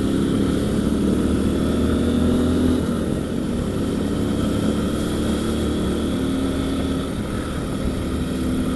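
Motorcycle engine running steadily under way, at a fairly even pitch with small rises and dips, over road and wind noise.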